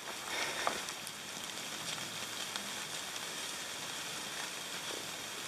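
Steady hiss of rain falling on wet forest foliage.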